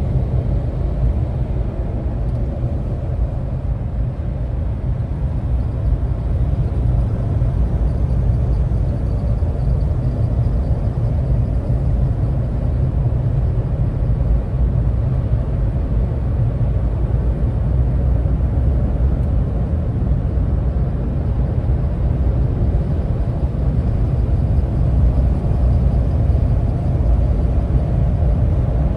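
Vehicle engine and road noise while driving: a steady low rumble with no distinct shifts or other events.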